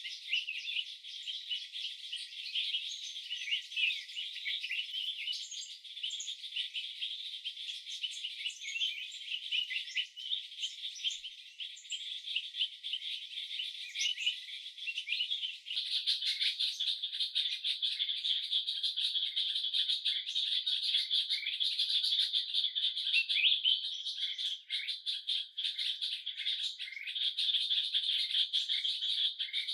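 Dense chorus of birds chirping over insects, with no low sound at all. About halfway through it changes abruptly to a thicker, steadier insect-like chorus.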